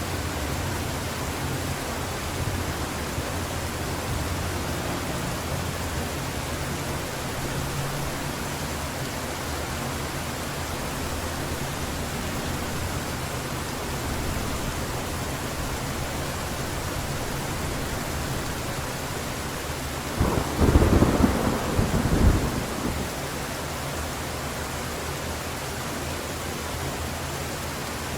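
Heavy rain falling steadily, with a loud clap of thunder about twenty seconds in that rumbles for about two seconds before dying back into the rain.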